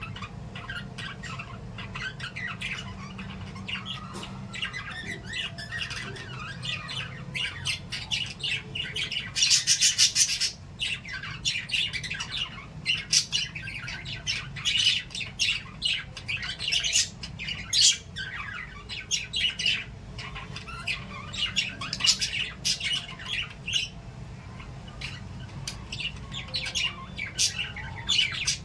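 Pet lovebirds and budgies chirping and squawking continuously, with a louder harsh squawk burst about ten seconds in. A steady low hum runs underneath.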